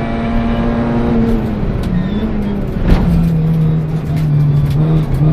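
VW Polo 1.4 rally car's four-cylinder engine heard from inside the cabin, running at a steady note that wavers about two seconds in. A sharp knock comes near three seconds, after which the engine settles to a steady lower note.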